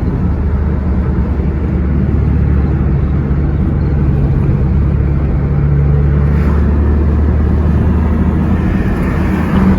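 A car's engine and tyre noise heard from inside the cabin while driving: a steady low drone, with the engine note rising a little around the middle and easing back.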